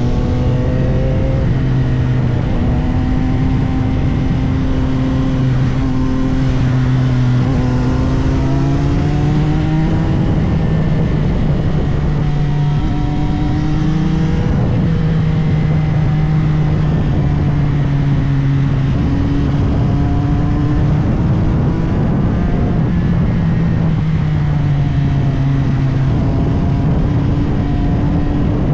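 CFMOTO 675SR-R's inline three-cylinder engine running hard on the road, its revs climbing and dropping several times as the rider accelerates and backs off, over steady wind and road noise.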